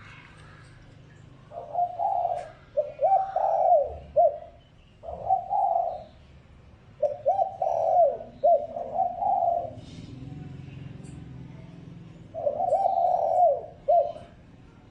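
Spotted dove cooing in repeated phrases of short notes that drop in pitch at the end, with a short pause about two-thirds of the way through. This is the male's territorial coo, used as a decoy call to provoke wild doves.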